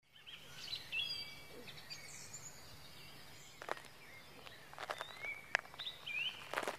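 Birds chirping and whistling in short calls, some gliding in pitch, over a faint steady hiss, with a few sharp clicks in the second half.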